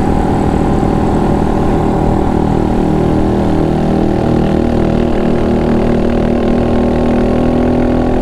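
A Honda Monkey 125's single-cylinder four-stroke engine running at a steady cruising speed, heard from on board the moving motorcycle with a constant, even engine note.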